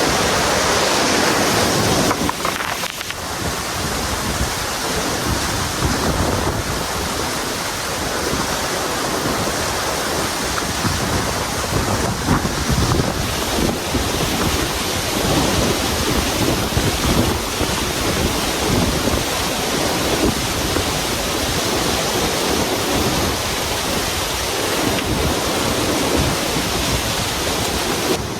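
Waterfall rushing as a steady, loud hiss, with wind buffeting the microphone in low gusts.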